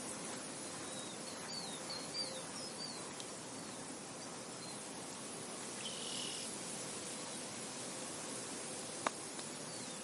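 Steady wind over a field, with a few short bird chirps about one to three seconds in, another short call about six seconds in, and a single sharp click near the end.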